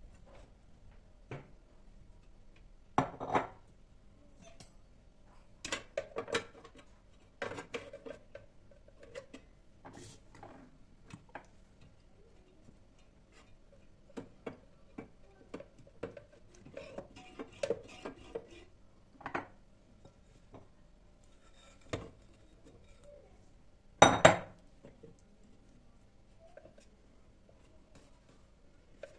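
Dishes and cutlery clinking and knocking in scattered, separate strokes during kitchen work, with the loudest double knock near the end.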